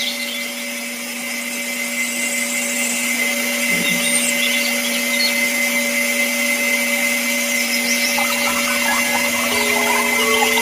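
Small electric power tool running steadily with a constant hum, getting slightly louder as it goes, with faint scratching in the last few seconds.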